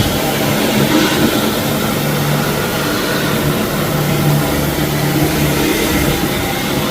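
Floor-cleaning machinery running steadily: a constant loud drone with a low hum.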